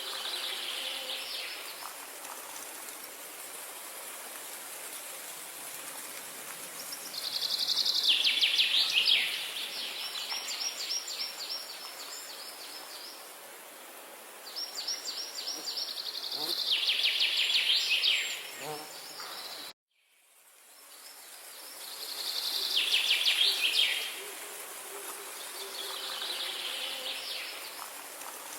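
Songbirds singing loud, rapid trills of about two seconds each, coming every few seconds over a steady background hiss. About two-thirds of the way through, the sound cuts out abruptly and then fades back in.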